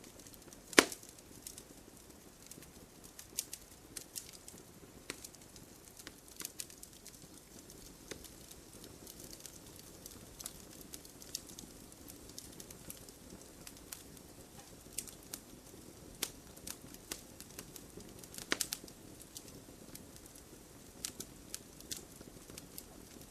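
Wood fire in a fireplace crackling: irregular sharp pops and snaps over a soft low hiss of the flames, with louder pops about a second in and about three-quarters of the way through.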